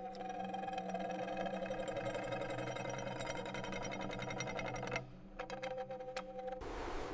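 A small motor-driven tool running steadily with a fast ticking rattle. It drops out briefly about five seconds in, resumes, and gives way to a steady hiss near the end.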